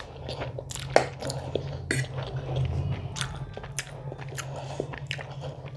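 Close-miked chewing of food, a run of quick, irregular clicks and crunches from the mouth, with a steady low hum underneath.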